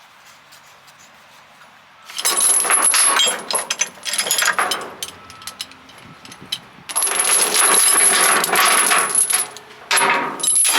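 Steel tie-down chain rattling and clinking as it is handled and pulled through, in two loud bursts of a few seconds each, the first about two seconds in.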